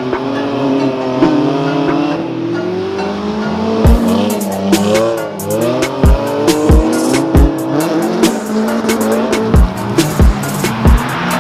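Drift car engine revving up and down with tyres squealing, under background music with a heavy beat that comes in about four seconds in.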